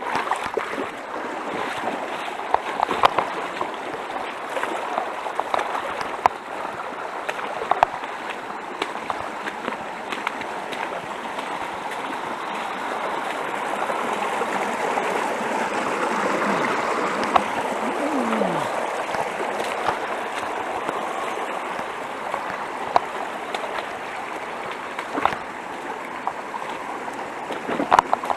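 Mountain stream rushing over rocks, a steady rush of water with scattered short clicks.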